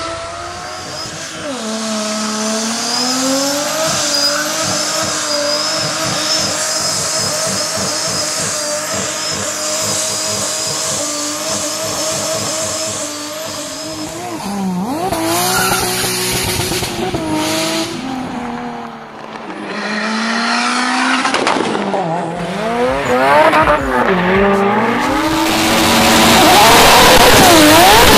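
Tuned turbocharged car engines running hard, their pitch repeatedly rising and falling as they accelerate and shift, in several clips one after another; the loudest stretch comes near the end.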